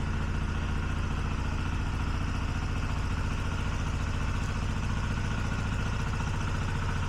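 A combustion engine running steadily at an even, low pitch.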